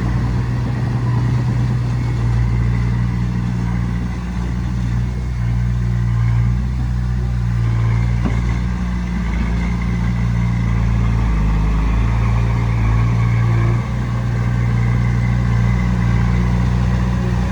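Diesel engine of a Komatsu D20P bulldozer running steadily under work, with a brief dip in level about three-quarters of the way through.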